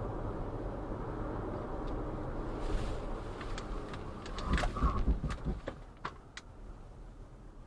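Steady vehicle road noise, then a short cluster of heavy thuds and sharp cracks about four and a half seconds in, followed by a few scattered clicks as the noise dies down.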